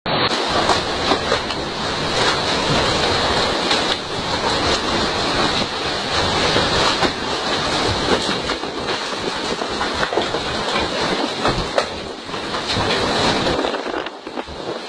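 Tornado winds blowing hard: a loud, steady rush of noise with frequent sharp clicks and knocks, easing slightly near the end.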